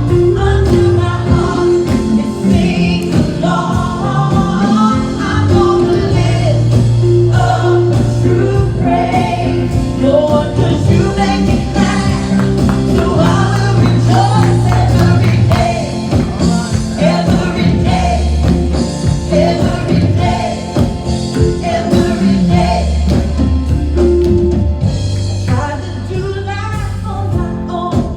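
Live gospel praise and worship music: a band with bass and drums playing under singers.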